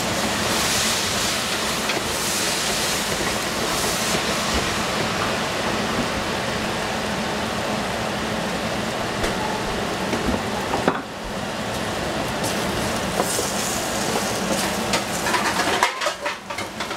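Cabbage stir-frying in a hot pan: a steady sizzling hiss, with a run of sharp clicks and scrapes from stirring near the end.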